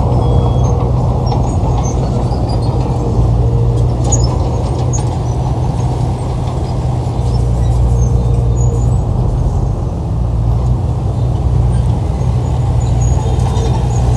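Heavy diesel engine of earthmoving equipment running steadily, a deep, even rumble with no pauses.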